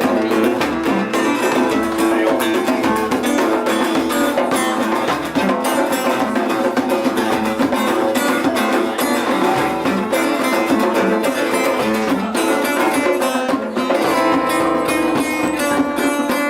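Guitar playing an instrumental passage with no singing, many quick plucked and strummed notes at a steady level.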